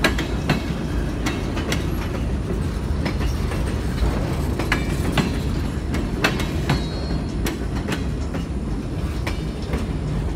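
Empty centerbeam flatcars of a freight train rolling past. Their steel wheels click and knock over the rail joints over a steady low rumble, with a few short, faint, high wheel squeals.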